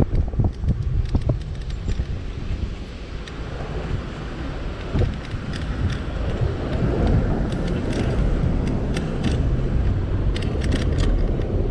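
Wind buffeting the microphone of an e-bike in motion, with road rumble and scattered light clicks and rattles in the second half.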